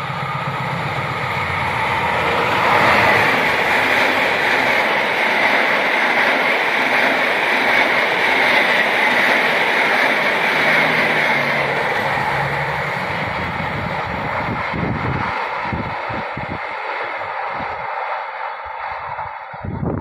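GE CC203 diesel-electric locomotive and its passenger coaches passing at speed: the engine's low hum as it nears, then a loud rush of wheels on rail as the coaches go by, fading as the train draws away.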